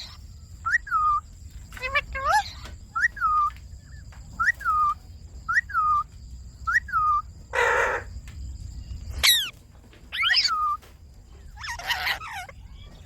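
Indian ringneck parakeets calling: a run of short, shrill calls repeated about once a second, followed by several harsher, rasping squawks and a brief noisy rush in the second half.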